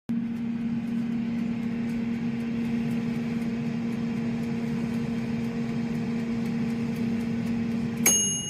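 LATURE 4.2 QT air fryer running: its fan motor hums steadily with a rush of air. Near the end its mechanical knob timer runs out with a single bell ding, and the fan cuts off.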